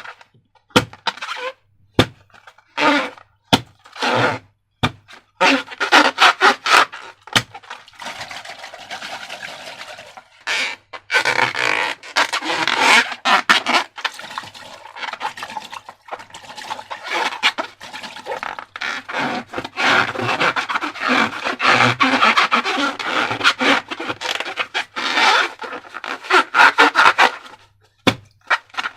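Slime being handled and mixed: a few sharp clicks in the first several seconds, then a long, dense run of sticky stirring and squishing noises that pauses briefly twice.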